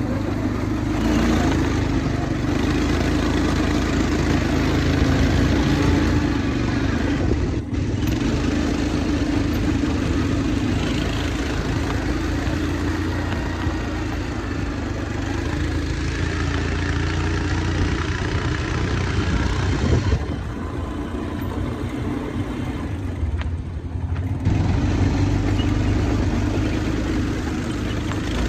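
Quad bike engine running steadily while riding, dropping back for a few seconds about twenty seconds in.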